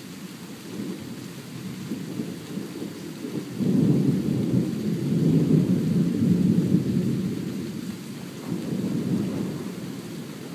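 Thunder rumbling: a low roll that swells sharply a few seconds in, holds for several seconds, then eases, with a smaller swell near the end.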